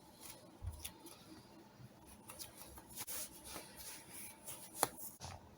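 Faint rustling and light clicks of small objects being handled, with one sharper click about five seconds in.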